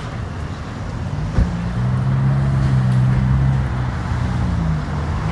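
A nearby motor vehicle's engine running, its low steady hum coming up after a short knock about a second and a half in, over background traffic noise.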